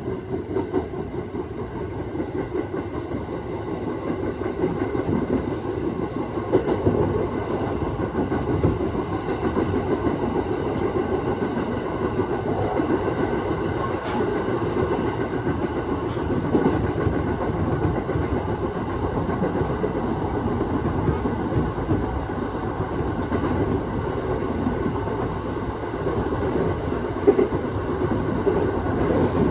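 Aoimori Railway 701 series electric train running along the line: steady rumble of wheels on rail and running gear, growing louder over the first several seconds and then holding steady.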